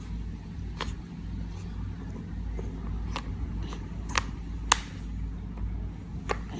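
Wooden plywood puzzle pieces clicking against the puzzle board as they are handled: about five light, sharp knocks spread unevenly, the loudest a little before the end, over a steady low hum.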